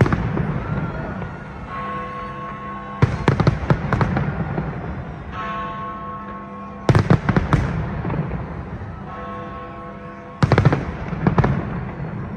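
Large display fireworks going off in three volleys, each a quick run of sharp bangs, about every three and a half seconds, with music playing steadily between them.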